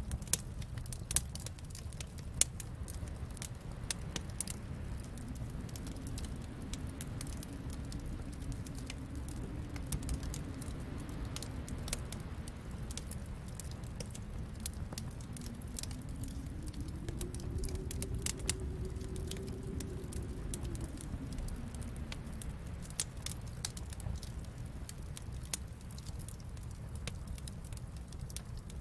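Wood fire crackling, with scattered sharp pops over a steady low rumble. A faint low howl slowly rises and falls in pitch, highest a little after the middle.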